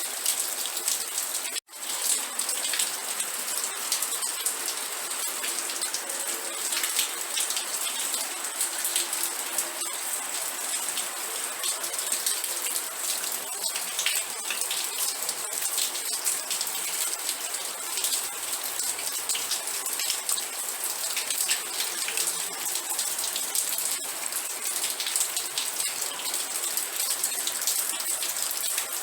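Steady rain, a dense patter of many individual drops hitting a surface. The sound cuts out for a split second about a second and a half in, then resumes.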